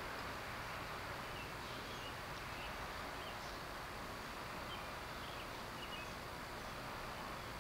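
Steady background hiss with a few faint, short high chirps scattered through it.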